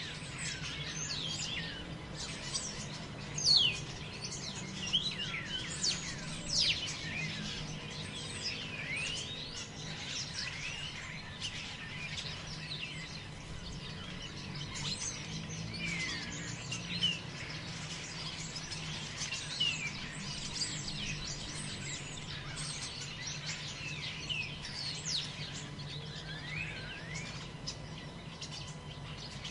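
Forest ambience: many birds chirping, with quick high notes that fall in pitch, overlapping throughout, over a steady low rumble.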